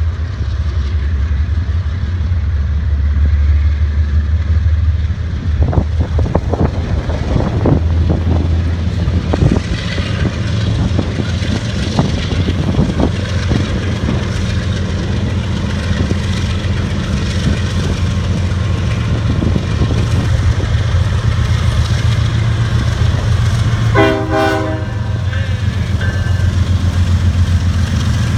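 Heavy diesel locomotive engine rumbling steadily as a freight train rolls by, with the wheels clacking over rail joints from about six seconds in. A short horn blast of about a second sounds near the end.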